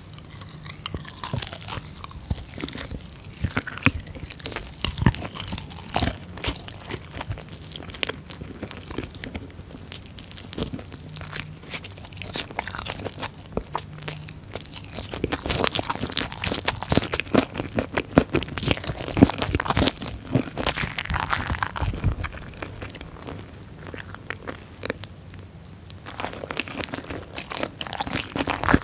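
Close-miked eating of spicy chicken feet: biting and chewing, with wet mouth sounds and many irregular sharp clicks as the feet are gnawed.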